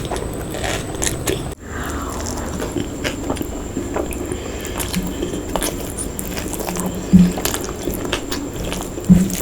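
A person eating close to the microphone: chewing and biting food, with many short wet mouth clicks. Two louder knocks come about seven and nine seconds in.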